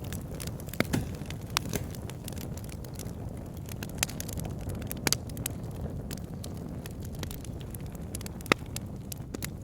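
Wood fire in a log burner crackling, with sharp irregular pops over a steady low rumble of the flames; the loudest pop comes near the end.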